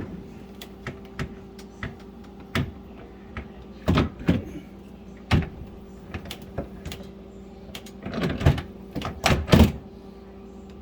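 Refrigerator's bottom drawer being slid back onto its rails and fitted into place: scattered clicks and knocks of plastic and metal. The loudest clatter comes about four seconds in and again in a cluster near the end.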